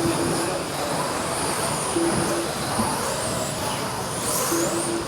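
Radio-controlled stadium trucks racing on the track: a steady din of motor whine with one rising and falling pitch about four seconds in. Short beeps sound in quick groups of two or three, about every two seconds.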